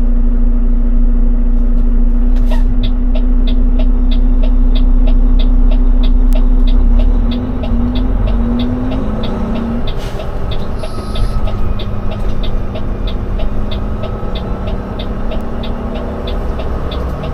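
Cab of a semi-truck tractor on the road: the diesel engine drones steadily, then drops in level and changes pitch about seven seconds in. An evenly paced ticking, about three a second, like a turn-signal indicator, runs from a few seconds in.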